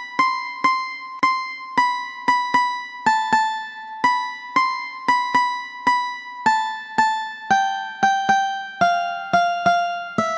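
Background music: a plucked-string instrument playing a simple melody one note at a time. Each note starts sharply and fades, about two notes a second.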